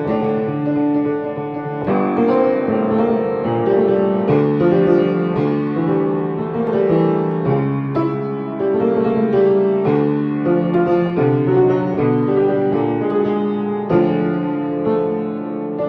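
Solo piano music: a steady flow of many quick notes and chords over a low bass line.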